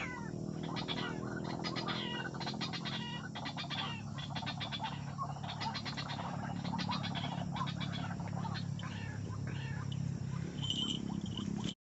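White-breasted waterhens (ruak-ruak) calling: repeated croaking, quacking calls made of rapid pulsed notes and falling notes over a steady low hum, cut off suddenly near the end.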